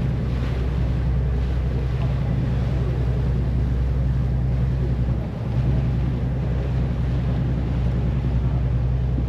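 A tour boat's engine running at a steady low hum, with water rushing and wind noise on the microphone. The hum dips briefly about five seconds in.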